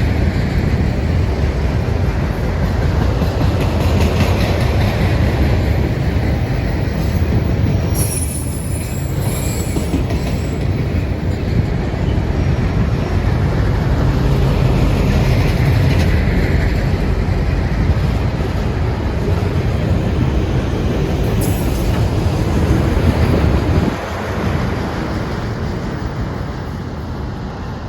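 Train passing close by: a loud, steady rumble of wheels on rail, with brief high wheel squeals twice. It drops off about three-quarters of the way through and fades as the train moves away.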